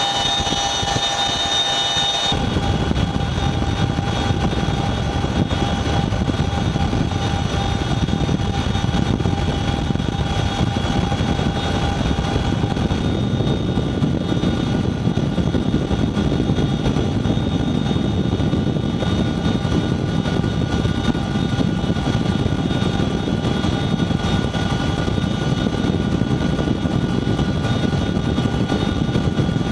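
Boeing CH-47 Chinook twin-rotor helicopter running: a steady heavy rotor noise with the whine of its turbine engines over it. About two seconds in, the high whine drops back and the low rotor noise grows.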